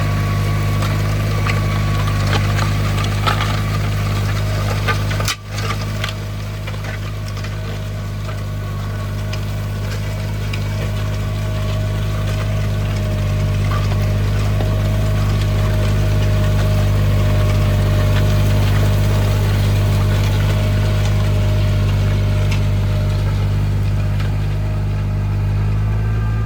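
Tractor engine running steadily, with some rattling clicks in the first few seconds and a brief break about five seconds in.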